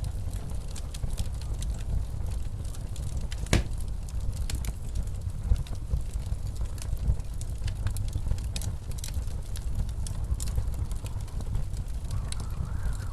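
Wood fire crackling with scattered pops, one sharp pop about three and a half seconds in, over a steady low rumble of blizzard wind.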